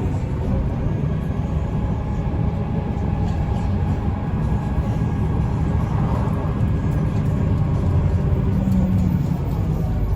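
Mercedes-Benz O405N2 city bus driving, heard from inside the bus: a steady, loud low rumble of engine and running gear.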